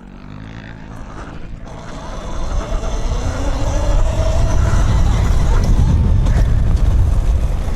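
Dirt bike engine revving up under acceleration, its pitch climbing for a couple of seconds and then holding high and loud.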